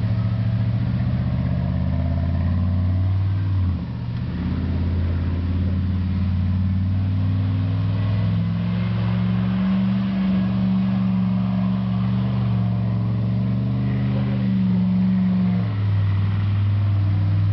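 Engine of a lifted 2002 Chevy truck running hard under throttle as the truck spins donuts in snow. Its note dips about four seconds in and rises and falls with the throttle after that.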